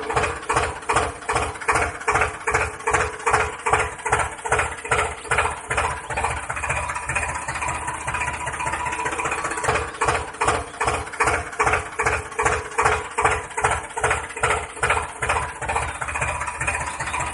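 Tractor-style engine chugging at idle with an even beat of about three to four pulses a second, evening out for a moment midway.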